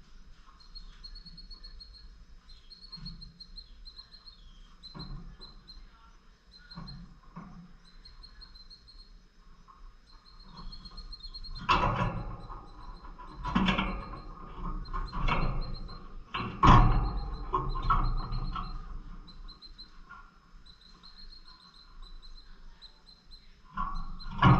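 Pet lovebirds chirping: strings of quick, high chirps repeat throughout, with several louder bursts of sound clustered about halfway through and another near the end.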